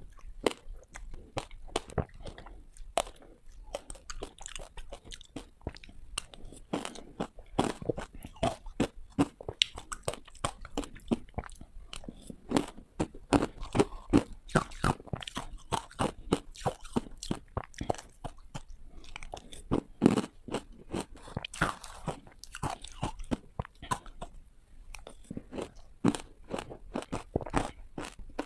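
Ice being bitten and crunched close to the microphone: a rapid run of sharp, loud cracks and crunches, one bite after another.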